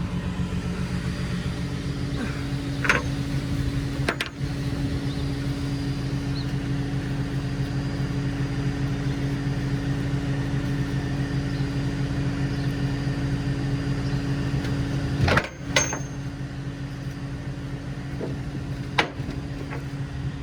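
Flatbed tow truck's engine idling steadily, with a few sharp clicks or knocks: one about three seconds in and two near the end.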